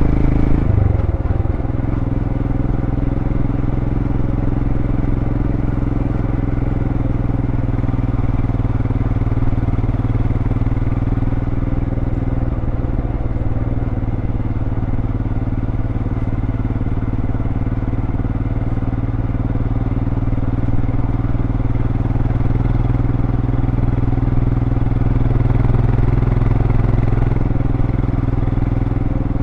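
2023 Royal Enfield Scram 411's single-cylinder engine through its stock exhaust, running steadily while riding, its pitch dipping briefly about a second in and again around twelve seconds.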